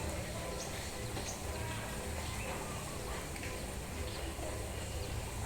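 Steady hiss of falling rain, with a few faint, short bird chirps over it.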